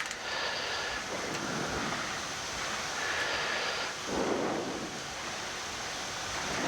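Steady rushing noise on a Boeing 787 flight deck during taxi, with a slight swell about four seconds in.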